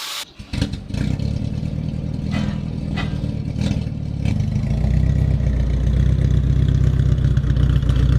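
Toyota Corona engine running through its newly fitted custom exhaust. The engine picks up about half a second in and gets louder about four seconds in.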